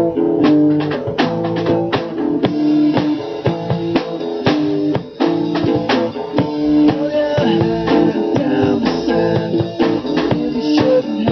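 Live rock band playing an instrumental passage: guitar with bass and drum kit keeping a steady beat.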